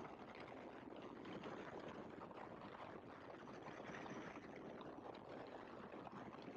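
Faint, steady rushing noise of a Great Lakes open-cockpit biplane in flight, engine and wind blended into an even hiss.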